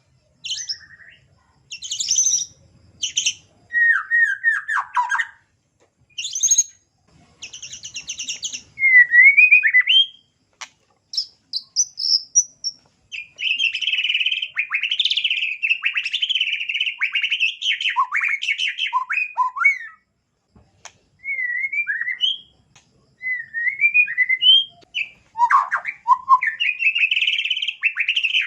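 White-rumped shama (murai batu) singing a varied song: short whistled glides and sharp chattering notes, then long fast trills, with brief pauses between phrases.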